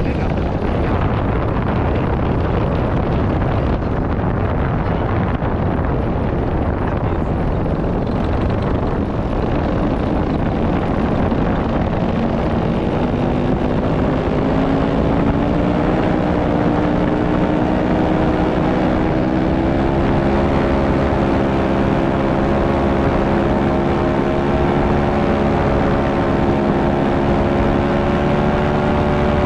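Motor-driven propeller running, with wind noise on the microphone. About halfway in, a steady whine made of several tones comes up and rises slightly in pitch.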